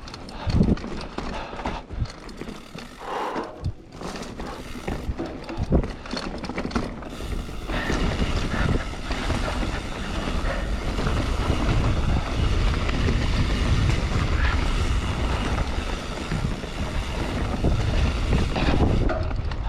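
Mountain bike riding down a dirt trail: scattered knocks and rattles from the bike over rough ground, then from about eight seconds in a louder, steady rush of tyres and wind on the microphone as it picks up speed.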